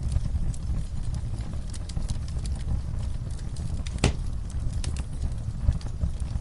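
Wood fire in a fireplace crackling: a steady low rumble of flames with scattered sharp crackles and one louder pop about four seconds in.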